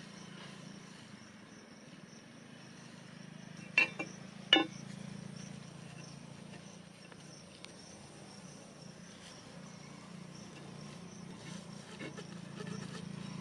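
Faint insects chirring over a steady low hum, broken about four seconds in by two sharp knocks less than a second apart, the loudest sounds.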